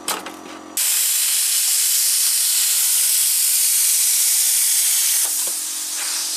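Plasma cutter starting abruptly about a second in with a loud, steady hiss of arc and air cutting through thin dishwasher sheet metal. About five seconds in it drops to a quieter hiss.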